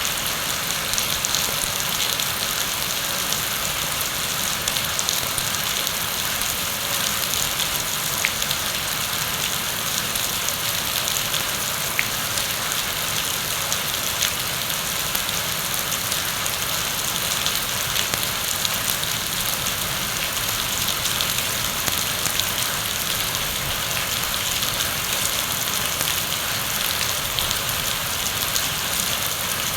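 Heavy rain falling steadily, a dense even hiss full of fine drop ticks, with a couple of sharper drop clicks around eight and twelve seconds in.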